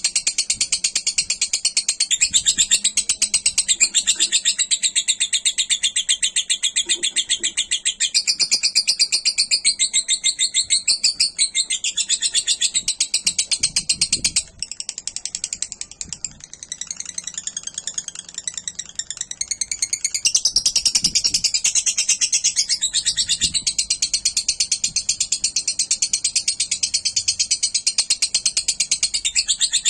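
Lovebird singing a long, unbroken run of very fast, high chattering. It drops back and turns patchier about halfway through, then picks up again at full strength.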